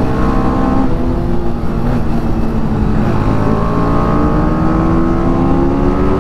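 Single-cylinder TVS Apache RR310 engine pulling hard under acceleration, its pitch climbing steadily, easing briefly about a second and a half in, then climbing again from about three and a half seconds, with heavy wind rush on the microphone.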